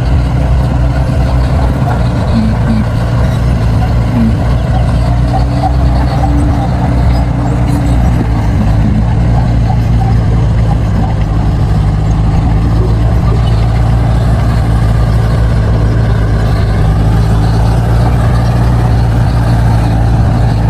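Crawler bulldozer's diesel engine running steadily, with a low, even drone.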